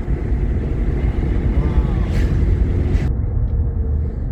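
A Jeep Grand Cherokee driving, heard from inside the cabin: a steady low rumble of engine and road noise.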